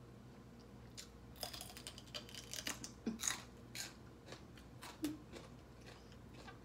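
Close-up crunchy chewing of food: a run of crisp crackles and wet mouth smacks, densest from about a second in to past the middle.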